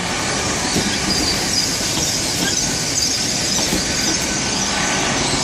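GWR Class 800 IET train running into the platform at slow speed: a steady rush of wheel and rail noise with a thin, high squeal running through it.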